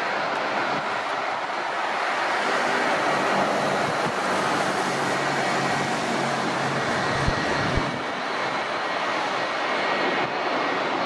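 Jet airliner engines running steadily, a loud even rush with a faint high whine.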